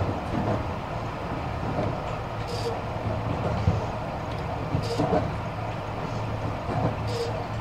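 Tobu 50000 series electric train running between stations, heard inside the passenger car: a steady low rumble with a light click about every two and a half seconds.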